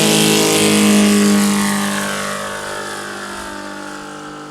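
Saito FG-84R3 three-cylinder radial petrol engine of a large-scale RC Zero model plane flying past at speed. The engine note is loudest about a second in, then drops in pitch and fades as the plane moves away.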